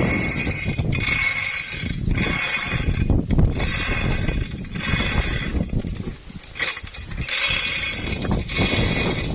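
Heavy machinery running with a constant low rumble, overlaid by a harsh high-pitched grating noise that comes in bursts of about a second, around seven times.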